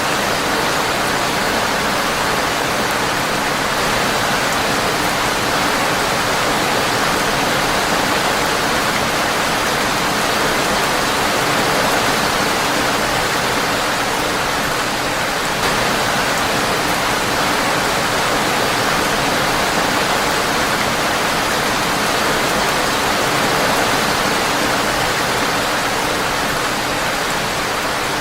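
Steady rain, an even unbroken hiss of drops on a window.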